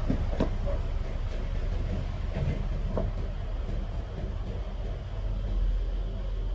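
A small engine running steadily with a low, even hum. A few sharp metallic clicks sound over it, one at the very start, another just after, and one about three seconds in.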